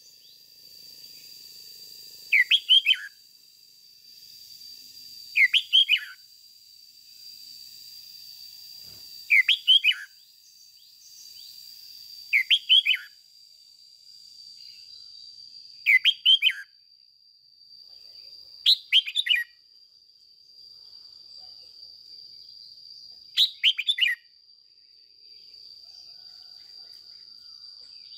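Red-whiskered bulbul calling in short, loud phrases, each a quick run of three or four falling notes, repeated seven times about every three to four seconds. A steady thin high-pitched tone lies beneath.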